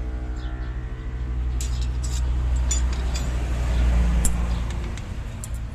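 A motor vehicle's engine running close by, growing louder to about four seconds in and then fading away, with a few light metallic clinks and bird chirps over it.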